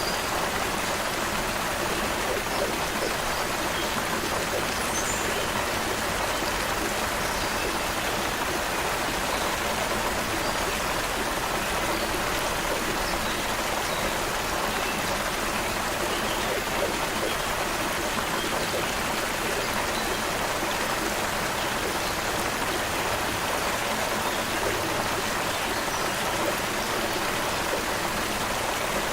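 Creek water flowing, a steady, unchanging rush.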